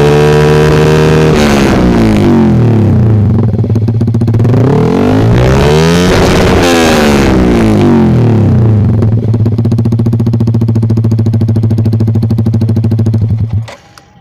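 Yamaha R15 V3's single-cylinder engine running through an aftermarket SC Project-style racing exhaust. It is held at raised revs, drops, is revved up once more to a peak about six seconds in, then falls back to a steady idle. The sound cuts off near the end.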